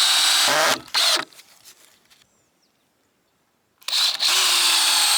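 Power drill running in two bursts of about two seconds each, with a silent gap between them. The motor slides down in pitch as the first burst stops, with a few short pulses after it, and the second burst spins up near the start.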